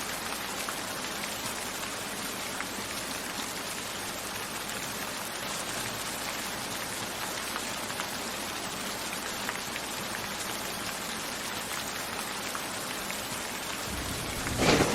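Steady rainfall hissing, with scattered individual drops ticking. Near the end a loud clap of thunder breaks in, rumbling low.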